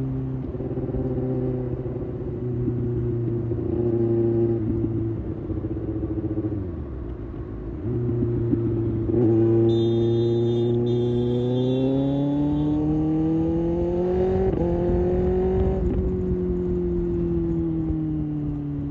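Kawasaki ZX-6R's inline-four engine on the road. It runs steadily, drops in pitch and dips about six seconds in, then pulls with a steady rise in pitch for several seconds before easing off near the end. A thin high tone sounds over it for a few seconds in the middle.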